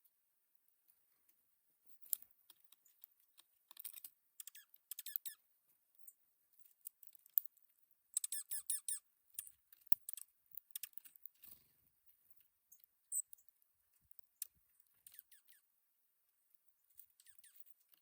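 Dark-eyed juncos pecking seed at a bird feeder: quick runs of light, dry clicks and taps in short bursts with pauses between. There is one brief high-pitched note about thirteen seconds in.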